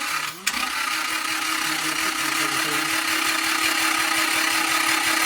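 Power tool running steadily, a whir with a constant hum and hiss that starts about half a second in, turning the engine over to push oil through the freshly cleared oil channel.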